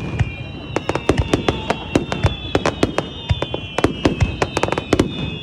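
Fireworks going off in quick succession: many sharp cracks and bangs close together, over high, steady whistling tones.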